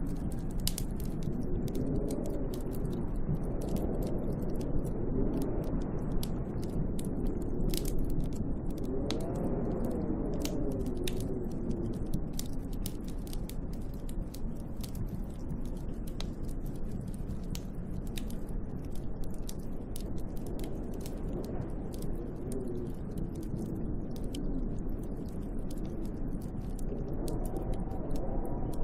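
Snowstorm wind howling around a hut, rising and falling in pitch with the gusts. Many small sharp ticks and clicks are scattered through it.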